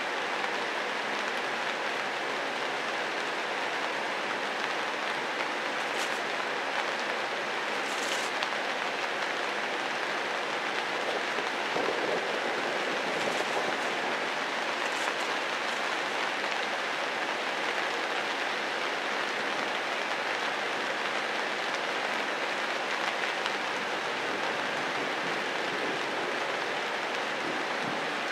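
Steady rain falling, an even hiss that does not let up, with a few brief high-pitched ticks standing out here and there.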